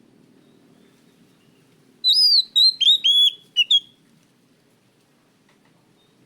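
Oriental magpie-robin singing one short phrase of loud, clear whistled notes, each slurring downward. The phrase starts about two seconds in and lasts about two seconds.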